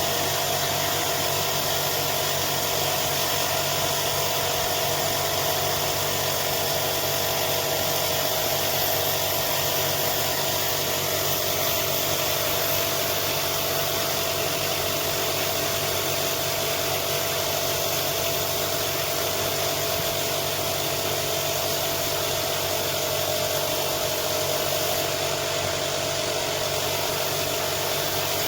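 A motor-driven machine running steadily and evenly, a constant hum with a steady whine over it and no change in speed.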